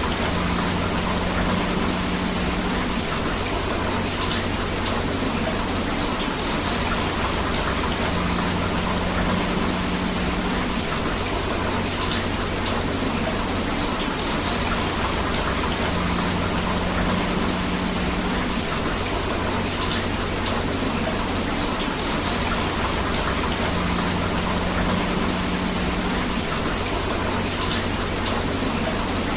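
Steady rain falling together with flowing river water, an even, unbroken hiss. A low hum swells and fades about every eight seconds.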